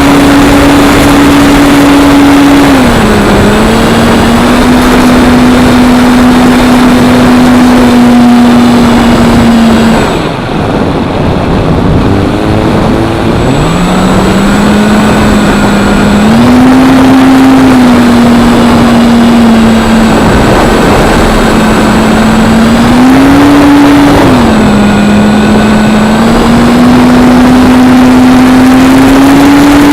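Electric motor and propeller of a Parkzone P-47 RC plane, a steady whine that shifts in pitch with the throttle. It drops away about ten seconds in and climbs back a few seconds later. A loud rush of wind and air noise runs underneath.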